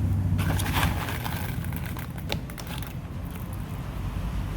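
Plastic airsoft BBs rattling and clicking as they are pressed into the loading port of an airsoft rifle's 300-round magazine that is already nearly full, with small plastic clicks of the magazine being handled.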